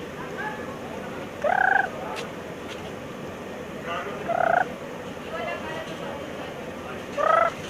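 A bird calling three times, each a short rising call about three seconds after the last, with fainter short notes in between.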